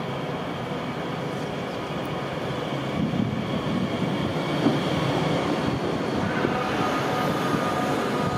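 Bombardier Talent 2 (DB class 442) electric multiple unit pulling into the platform and passing close by, with a steady rumble of wheels and running gear. The rumble swells as the cars draw alongside, and a whine of several steady tones comes in near the end.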